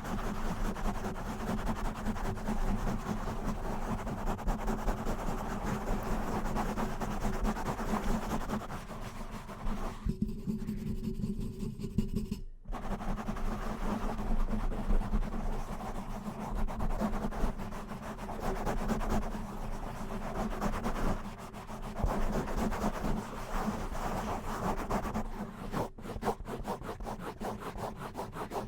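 Fast scratching and rubbing on a surface, close to the microphone. There is a brief break a little after ten seconds, and quick tapping comes in near the end.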